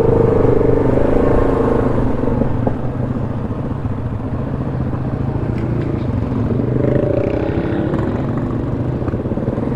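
ATV engine running steadily on a trail ride, with a wavering whine that fades after about two seconds and comes back around seven seconds in.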